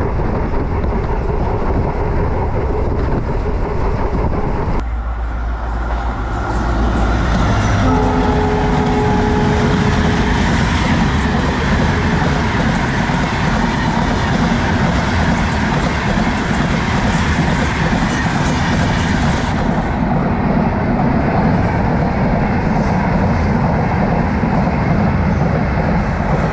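Diesel-hauled express train running along the track, its wheels clattering steadily over the rails. A short steady tone sounds about eight seconds in.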